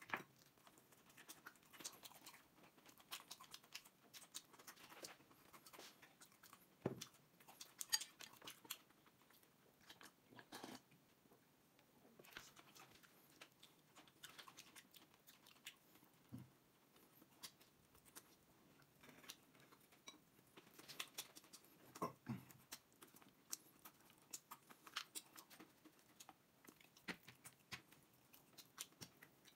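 A person chewing and biting close to the microphone while eating braised pork ribs and sour cabbage, with scattered sharp clicks and crunches.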